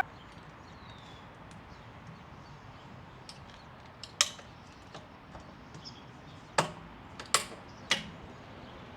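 Quiet handling of tools and parts, with a few small ticks and four sharp clinks about four, six and a half, seven and a half and eight seconds in.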